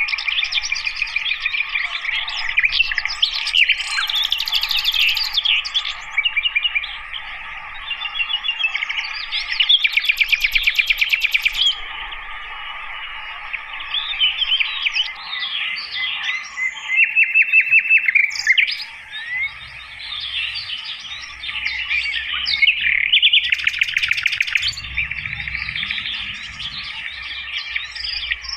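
Sikatan londo flycatcher singing a long, varied song of quick chirps, sweeping notes and rapid trills, over a steady background drone.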